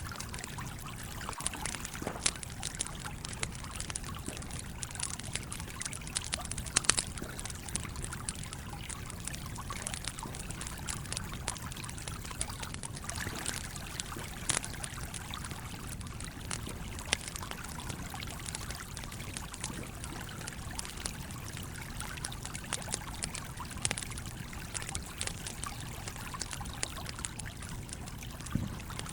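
Campfire crackling, with irregular sharp pops, over the steady flow of a stream. The loudest pops come about seven seconds in.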